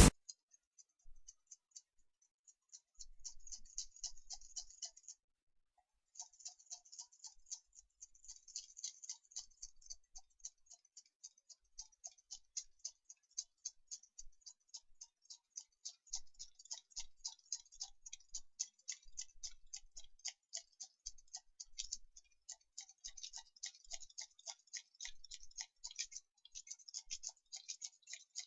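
Faint, rapid, uneven ticking or clicking that starts about a second in, stops briefly around five seconds, then carries on.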